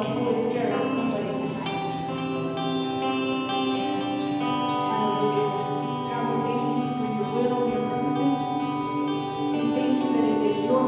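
Worship band music: guitar and instruments holding slow, sustained chords.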